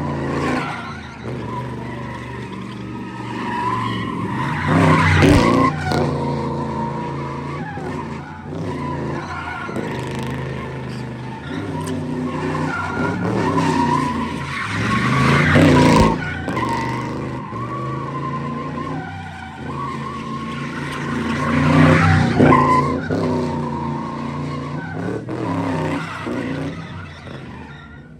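Modified cars revving hard and skidding with tyres squealing as they are driven round the lot, the noise swelling loud three times as cars come close.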